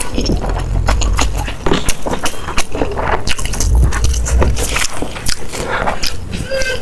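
Close-miked eating: chewing and crunching of food, with many short, sharp clicks and crackles.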